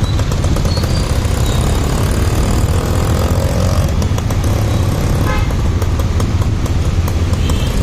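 Motorcycle riding along in traffic, its engine running steadily under a loud, constant rumble.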